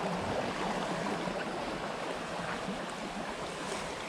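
Rocky jungle stream running: a steady rush of water over stones.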